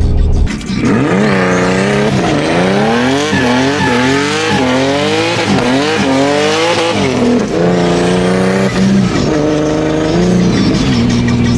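Turbocharged Infiniti G37 drift car's engine revving hard up and down over and over, the revs rising and falling roughly once a second, with tyre squeal as the car slides. Later the revs flatten out, break off a few times and hold steady near the end.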